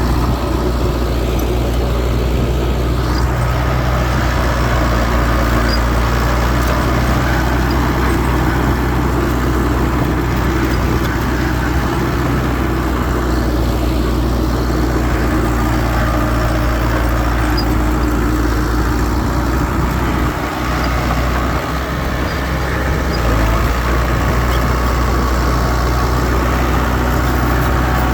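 Heavy diesel machinery engine running steadily with a low, even hum.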